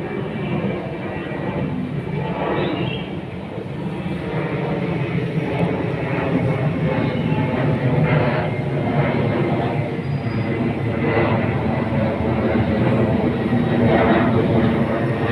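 Boeing 737-900ER's CFM56-7B turbofan engines at takeoff power: a loud, steady jet rumble with a whine of several tones, slowly growing louder.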